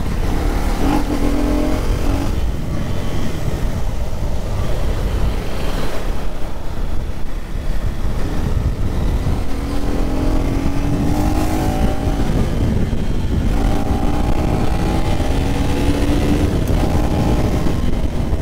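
KTM 250 Duke's single-cylinder four-stroke engine under way, its revs climbing in short rising runs as it pulls up through the gears, about a second in and several times in the second half. A heavy low rumble of wind on the microphone runs under it.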